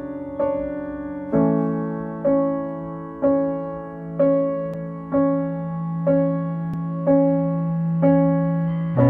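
Background music: slow piano, with one note or chord struck about once a second over a held low note that changes twice.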